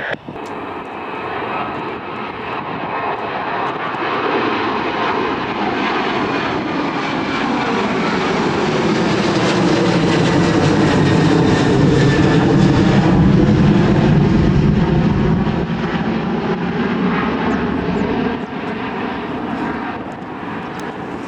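Jet airliner's engines at takeoff power as it rolls down the runway, swelling to a peak midway and easing off again as the pitch drops while it passes.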